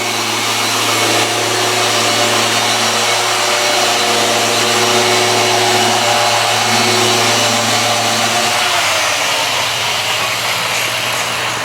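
Rupes Mille gear-driven orbital polisher running steadily on a vehicle's paint, a constant hum with a hiss over it; its higher tones drop away about eight and a half seconds in.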